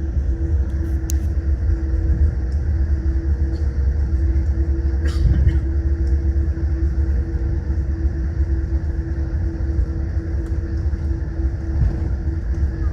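Cabin noise of a Boeing 787 Dreamliner on the ground: a steady deep rumble with a constant hum over it, and a short rattle about five seconds in.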